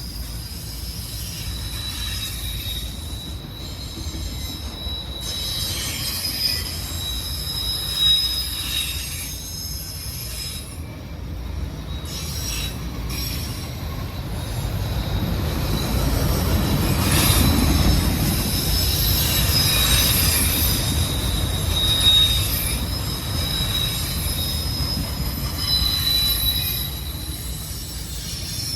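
Freight train of autorack cars rolling past, its steel wheels squealing in thin, high, steady tones over a constant low rumble, with occasional clacks. The flange squeal is typical of wheels on curving track. The rumble swells louder about halfway through.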